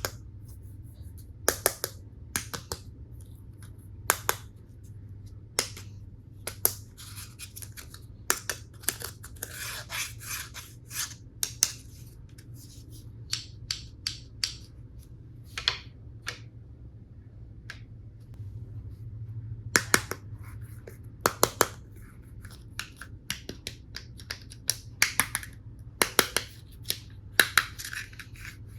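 Plastic toy tool pieces being handled: irregular sharp clicks, often in quick pairs, with bouts of scratchy rustling and scraping, over a faint low hum.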